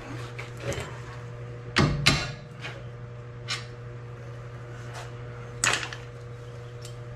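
A few sharp metallic knocks and clanks of tools working on the car's front strut and suspension, the loudest pair about two seconds in, over a steady low hum.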